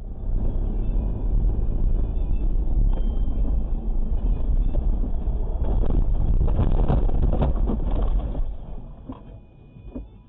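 Steady low rumble of a car driving on the road, engine and tyre noise heard through a car-mounted camera, with a few knocks and bumps midway through.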